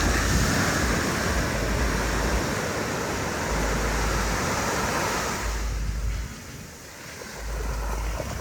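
Surf breaking on the beach, a loud wash of noise that falls away about six seconds in and builds again near the end, with wind buffeting the microphone.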